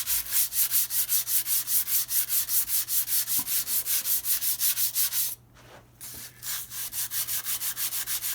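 Sandpaper rubbed back and forth on the flat metal mounting face of a brake lathe's cutter head, in quick even strokes about five a second, with a brief pause a little past halfway. It is showing up high spots so the cutter head will seat flat, a cure for rotor chatter.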